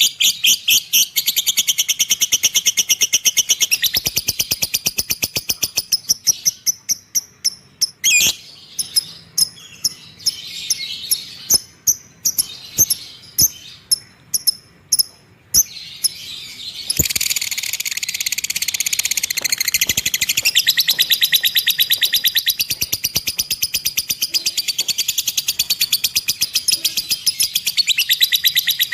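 Lovebird chattering (ngekek): long runs of rapid, high-pitched chirps strung into fast trills. The run breaks into separate chirps partway through, then comes back as a dense, unbroken trill that lasts to the end.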